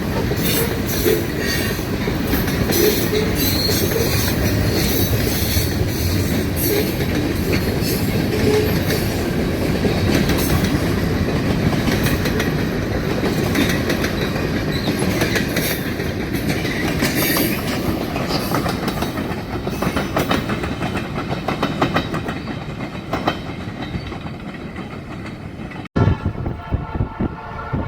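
Freight train rolling past, a steady rumble of wheels with rapid clicking over the rail joints that fades off toward the end. After an abrupt cut near the end, a GE B39-8E locomotive's air horn sounds a chord of several tones.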